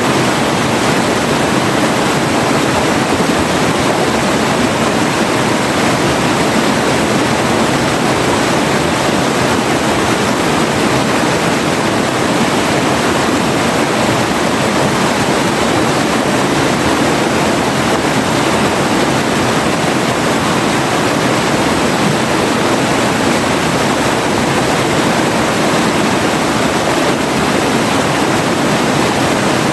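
River water flowing over a forest streambed, a steady, even rush of water that does not change.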